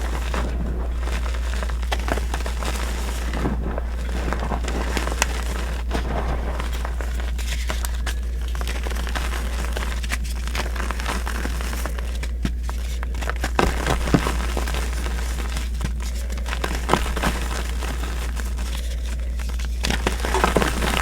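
Reformed gym chalk being crushed and crumbled, a steady crunchy, gritty crackling with a few louder snaps, over a constant low hum.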